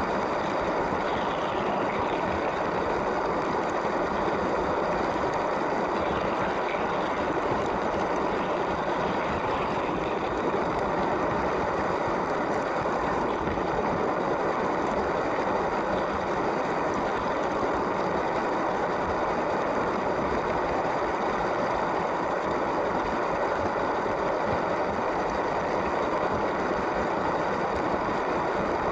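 LEGO train's small electric motor whirring steadily, with its wheels running along plastic track.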